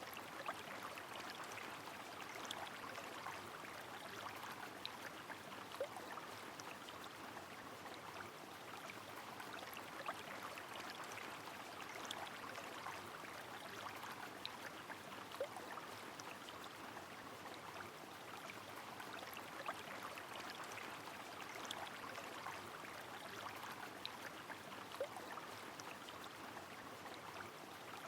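A river flowing steadily in the rain: an even rush of running water, dotted with many brief, sharp drip sounds.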